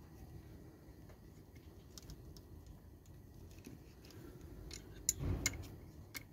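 Light metallic clicks and clinks of tools or small metal parts being handled, with a cluster of sharper clicks and a dull knock about five seconds in.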